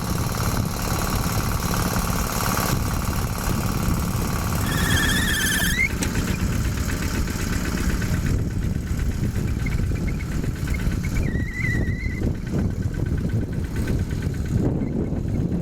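Yanmar single-cylinder diesel engine of a Quick G1000 hand tractor running steadily. A short wavering whistle-like tone sounds over it twice, about five seconds in and again near twelve seconds.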